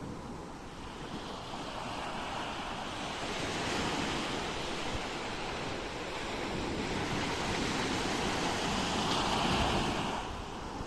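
Ocean waves breaking and washing on a shore, a steady hiss that swells twice, once about four seconds in and again near the end, then falls away quickly.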